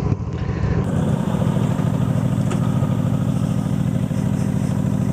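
Honda Shadow Aero V-twin motorcycle engine running steadily, a low even pulsing, with a sudden change in the sound's brightness about a second in.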